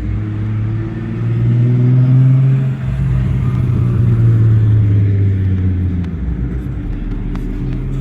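A car driving past with a low engine rumble that swells to its loudest a couple of seconds in, its pitch rising a little and then dropping away as it passes and fades.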